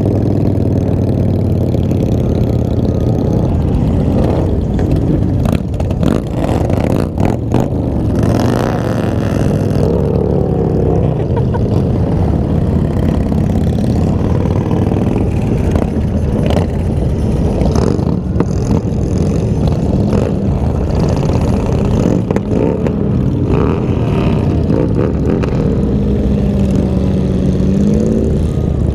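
Several motorcycle engines running together, their pitches rising and falling as riders blip the throttles.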